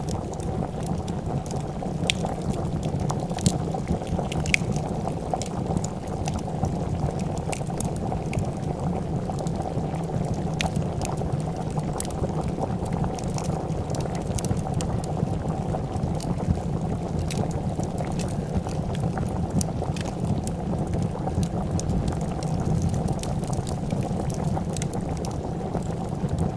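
A pot of soup bubbling at a steady boil, with scattered sharp pops and crackles of a wood fire.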